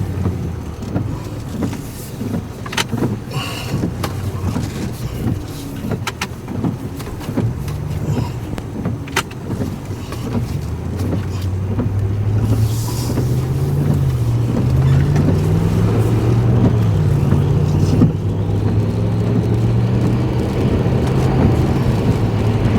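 Chase vehicle driving away, its engine and road noise inside the cabin, with scattered clicks in the first half. From about a third of the way in the engine rises in pitch and drops back several times as it accelerates through the gears, growing louder.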